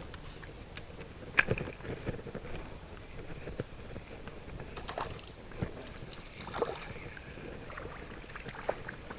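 Irregular knocks and clicks, the loudest about a second and a half in, over a steady hiss.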